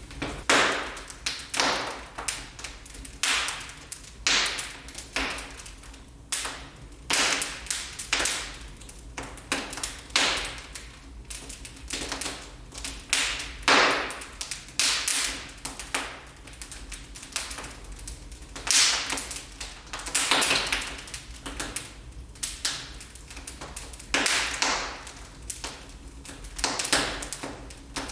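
Wood fire crackling in a fireplace, with sharp pops and snaps coming at an irregular pace of about one or two a second.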